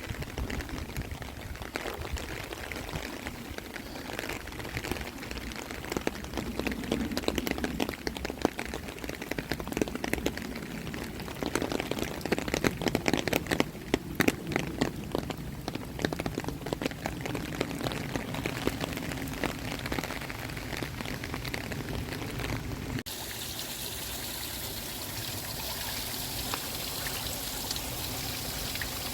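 Rain falling, with many close drops striking a surface, densest in the middle. About 23 seconds in, the sound changes suddenly to a steadier, higher hiss of water.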